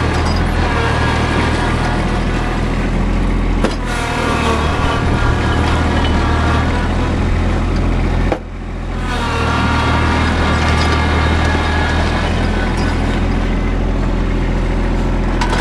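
Tractor engine running steadily while plowing snow. There is a sharp click about four seconds in, and a sudden brief drop in the engine sound a little after eight seconds before it builds back.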